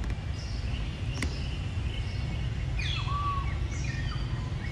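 Birds chirping with short whistled calls, one a falling glide that levels into a held note about three seconds in, over a steady low outdoor rumble. A single sharp click sounds about a second in.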